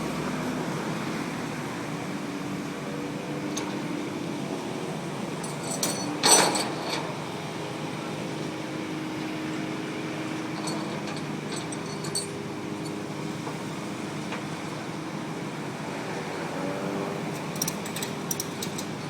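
Vehicle engine running steadily, with one loud metallic clank about six seconds in and a few light clinks later on.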